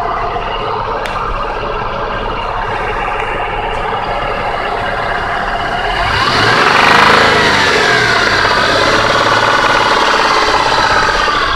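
2004 Jeep Liberty engine idling, then revved about six seconds in: it rises in pitch, holds at higher revs and eases back near the end. The owner reports a clacking noise from the engine when it is revved.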